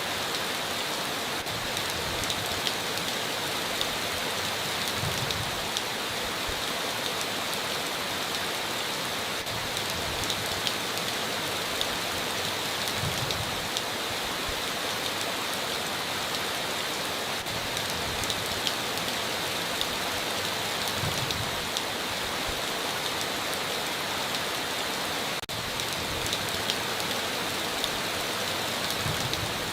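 Heavy rain falling steadily on a tin roof, with many scattered sharp drop ticks.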